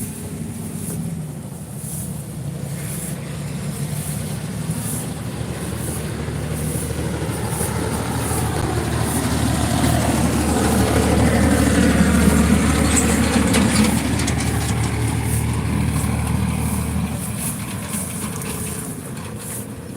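A motor vehicle going by: its engine hum grows slowly louder, is loudest about twelve seconds in, then fades away.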